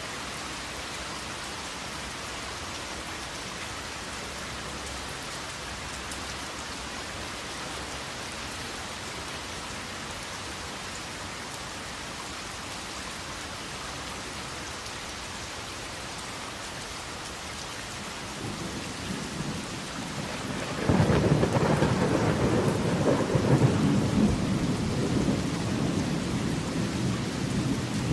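Steady heavy rain, joined about two-thirds of the way in by a low thunder rumble that swells and turns loud about three seconds later, carrying on to the end.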